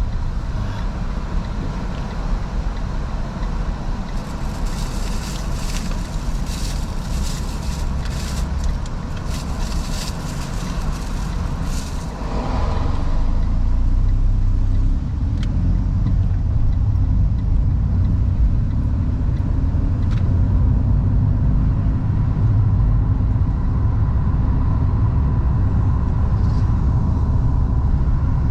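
A FIAT 500S driving, heard from inside the cabin with the windows fully open: a steady low engine and road rumble, which grows louder about halfway through.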